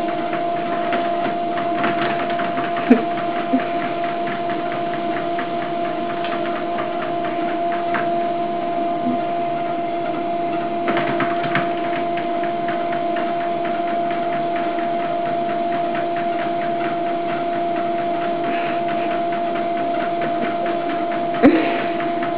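Motorized treadmill running at a steady speed, its motor and belt giving a constant hum with a steady whine. A couple of sharp clicks about three seconds in and again near the end.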